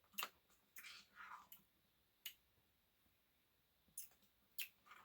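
Faint eating noises from someone eating a soft-serve Blizzard: a handful of short, sharp clicks and smacks spread through, with a soft breathy sound about a second in.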